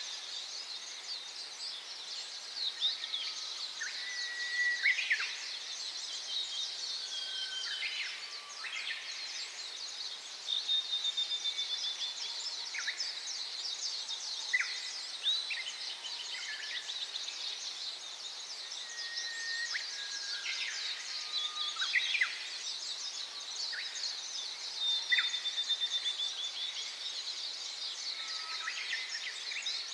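Small forest birds calling: a steady chatter of rapid, very high chirps, with short, clear whistled notes dropping in every second or two.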